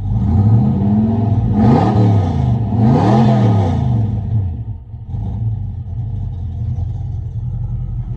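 Car engine with turbo mufflers revved twice in quick blips from idle, the exhaust rumble rising and falling in pitch each time, then settling back to a steady idle; heard from inside the car.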